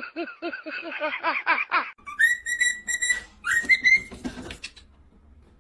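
A quick run of short repeated calls, about six a second, then two whistled notes: one held steady for about a second, the next shorter and rising.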